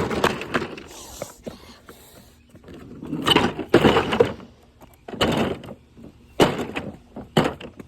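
A tall object kicked over, crashing to the ground at the start, followed by several more loud clattering knocks as it is moved about.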